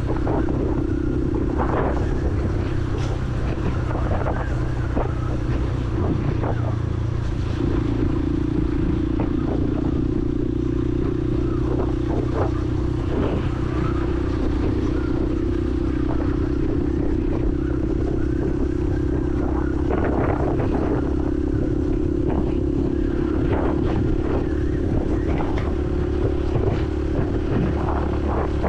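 Honda CRF150L's single-cylinder four-stroke engine running at steady, moderate revs while riding in city traffic, with the pitch dropping slightly about seven seconds in. Short clatters and street noise come through over the engine.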